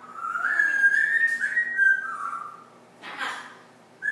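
Pet parrot whistling a tune in a run of held notes that step up and then down, followed about three seconds in by a short harsher call.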